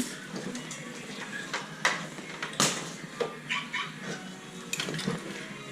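Scattered knocks and clicks of hand work on a car during an engine removal, the loudest a little over halfway through, over a low steady hum.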